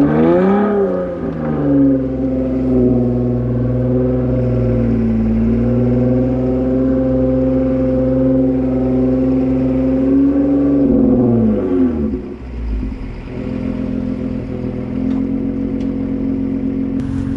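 A truck engine revs up and is held at high revs under load for about eleven seconds, pulling through a kinetic recovery rope. The revs then fall away, and the engine settles to a lower, steady running speed near the end.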